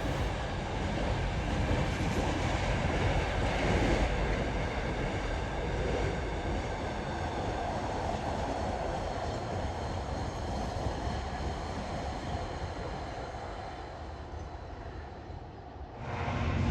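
Freight train running past on the main line: a steady rumble and rush of wheels on rail that slowly fades as it draws away. Near the end it cuts off abruptly and a different low, steady hum takes over.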